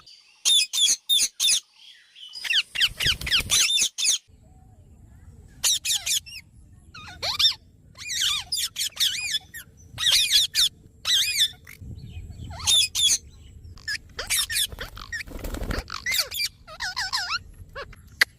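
Parrots calling: repeated short, high squawks and chattering calls in quick clusters with short gaps between them. A brief low rumble comes in about three-quarters of the way through.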